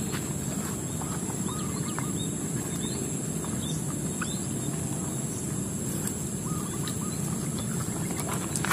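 Short hooked bird chirps repeating here and there over a steady high-pitched whine and a steady low rumble of outdoor background noise.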